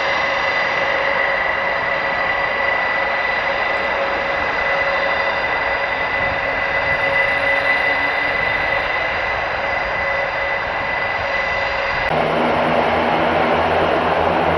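Airbus A400M's four turboprop engines running, a steady whine over a broad rush of noise. About twelve seconds in, the sound changes abruptly to a deeper, throbbing drone.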